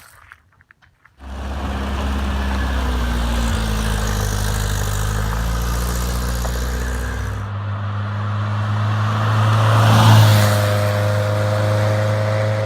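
A car engine running at a steady speed, starting abruptly about a second in. About seven and a half seconds in the note changes suddenly to a higher steady engine tone, which swells briefly near ten seconds.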